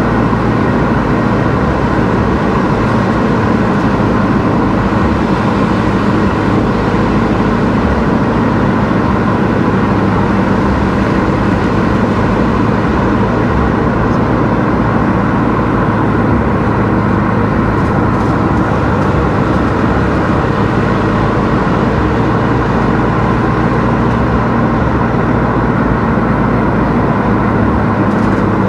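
Car driving along a road at a steady pace: continuous engine and tyre noise.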